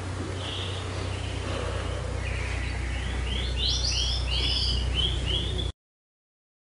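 A bird chirping, a run of short high notes in quick succession in the second half, over a steady low hum; the sound cuts off suddenly shortly before the end.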